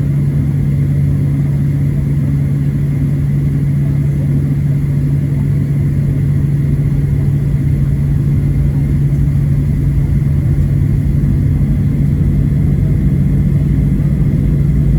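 Cabin noise of a Boeing 737-700 taxiing, its CFM56-7B turbofans turning at low power. A steady low drone sits over a low rumble.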